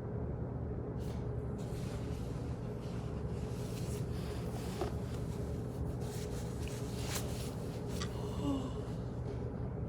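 Office background noise: a steady low hum with scattered soft clicks and knocks, and a short pitched sound near the end.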